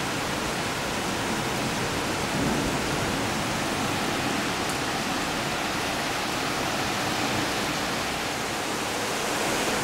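Heavy downpour of rain falling steadily, an even hiss.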